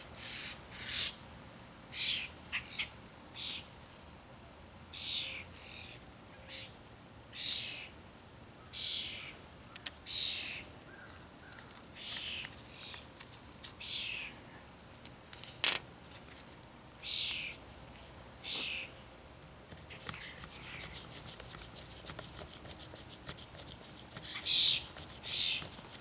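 Screws being turned back into an Echo SRM 230 string trimmer with a hand driver and bit: a series of short scraping squeaks, about one a second, with one sharp click about two-thirds of the way through and a run of fast ticks shortly after.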